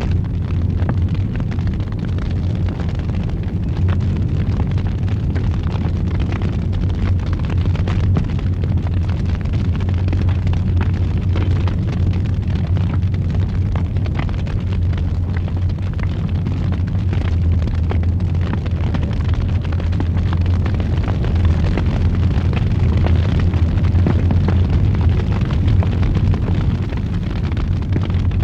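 Fire burning in a fireplace: a steady low roar with scattered small crackles and pops.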